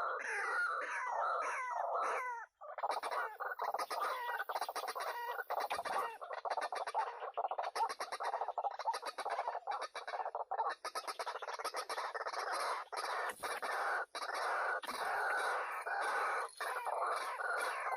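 White-breasted waterhens calling: a dense, continuous run of repeated clucking call notes, with one brief break about two and a half seconds in.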